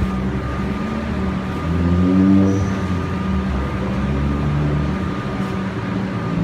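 V/Line diesel passenger train running through the station: a steady low engine drone, with a brief rise in pitch and loudness about two seconds in.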